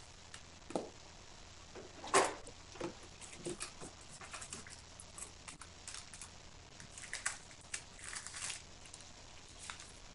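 Five-day-old Great Pyrenees puppies and their mother stirring in the whelping box: scattered, irregular soft rustles and shuffles, the loudest about two seconds in.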